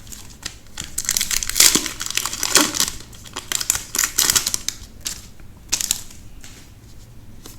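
Foil Magic: The Gathering booster pack wrapper crinkling and crackling in the hands as it is torn open, in irregular bursts over several seconds.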